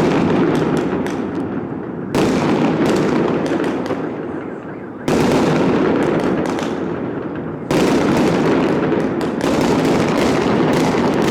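Fireworks bursting, a sudden loud bang about two, five and seven and a half seconds in, each followed by a dense crackling rumble that fades over a couple of seconds.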